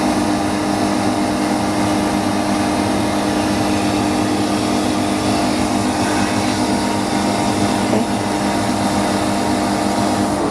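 Steady hum of running repair-shop machinery, with a constant low tone and a light click about eight seconds in.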